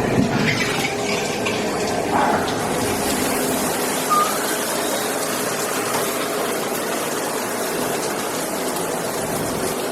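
Water spraying steadily from an advertised 10.5 gpm high-flow shower head, run with its flow restrictor removed: a constant rushing hiss of a wide-angle spray.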